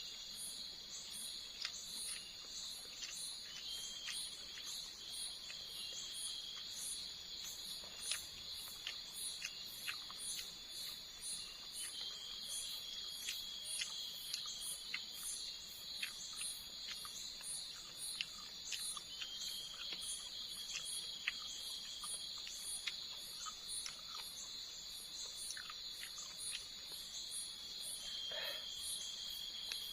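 Forest insect chorus: a steady high buzz of crickets with a second, higher insect call pulsing about twice a second, and scattered small clicks.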